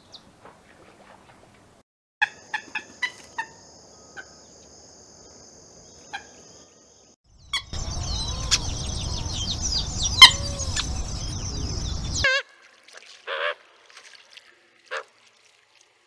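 Field recordings of gallinule calls. First come short, sharp calls of a spot-flanked gallinule. From about seven and a half seconds in, a louder recording of purple gallinule calls follows over a low rumbling background. It cuts off about twelve seconds in, and a few scattered calls come after.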